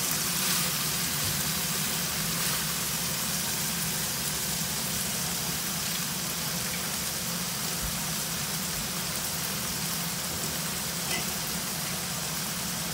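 Long beans, mushrooms and rice noodles sizzling in a frying pan over a gas burner: a steady, even hiss, with a low steady hum underneath.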